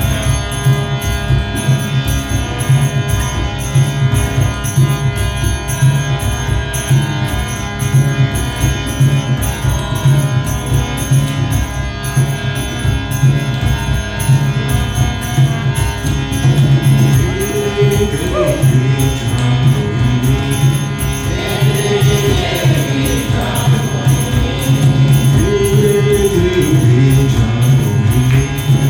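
Kirtan devotional music: a steady droning instrument under a regular jingling rhythm, with voices chanting a mantra coming in a little over halfway through.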